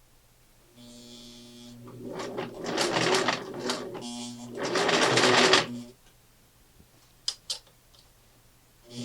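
1968 Singer Model 628 Touch & Sew electric sewing machine stitching through denim: a steady motor hum with two louder runs of stitching, stopping about six seconds in. Two short clicks follow.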